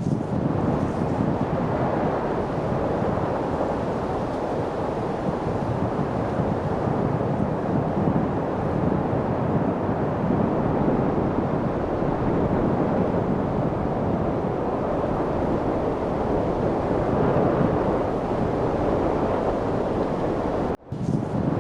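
Steady rushing wind noise, an even low-pitched rush without gusts or distinct events, that cuts out for a split second near the end and comes straight back.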